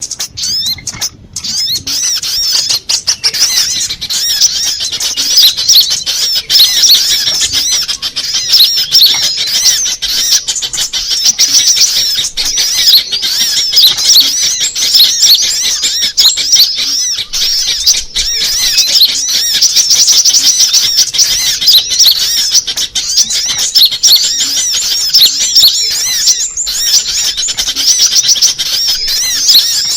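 Sunbird lure recording: a dense, continuous stream of high-pitched twittering chirps and trills from sunbirds, with no pauses.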